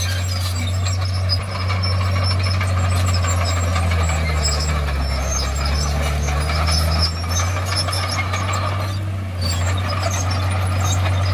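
Diesel engine of heavy earthmoving machinery running steadily under load, its pitch sagging for a few seconds in the middle and then recovering, with scattered high metallic clinks over the drone.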